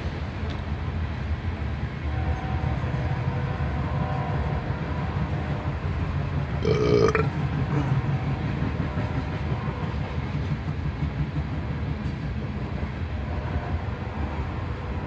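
Passing train, a steady low rumble. There are faint held tones early on and near the end, and one short loud sound about seven seconds in.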